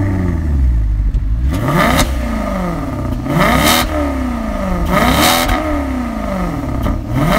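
2013 Maserati GranTurismo Sport's Ferrari-built 4.7-litre V8, just started and revved in place. Its throttle is blipped about every second and a half, each rev climbing quickly and falling slowly back to idle.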